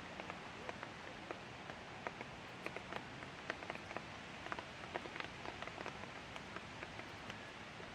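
Light rain falling: a steady hiss with many irregular sharp taps of drops hitting nearby surfaces.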